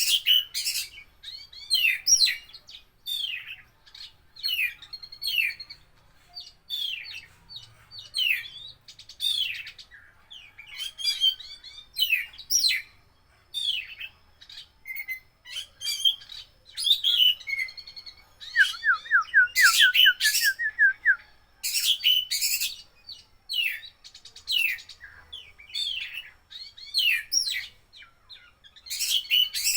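Oriental magpie-robin (kacer) singing a continuous run of short, varied whistled and chirping phrases with mimicked calls mixed in. About two-thirds of the way through comes a rapid trill of about a dozen quick falling notes, followed by the loudest phrases.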